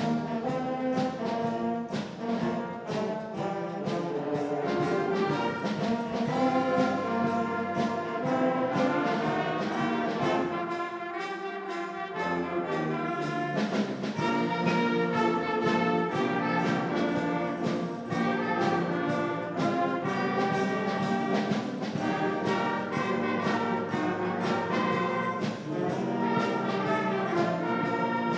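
Band music with brass instruments carrying sustained chords and melody, over regular percussion strokes; the lowest notes drop out for a second or two about halfway through.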